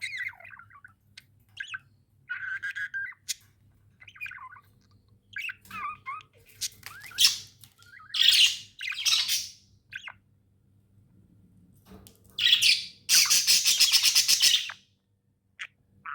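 Pet budgerigars chirping and chattering: many short, quick chirps, with louder, harsher calls midway and a long, rapid run of loud calls about two seconds long near the end.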